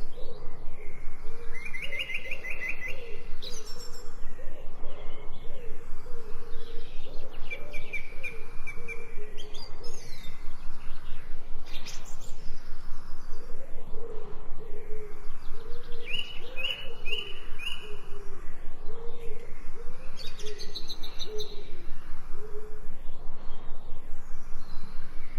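Wild birds singing: short high trilled chirping phrases every few seconds over a continuous run of lower warbling or cooing calls.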